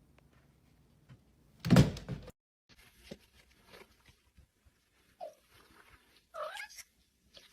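A loud thump about two seconds in, then a cat's short meows near the end.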